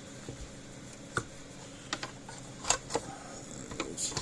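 A few scattered clicks and knocks of a plastic case and circuit board being handled as the board is worked out of a solar electric fence charger.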